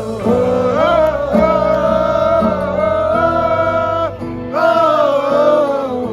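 A song: a singer holding long, gliding notes over instrumental backing, with a short break in the voice about four seconds in.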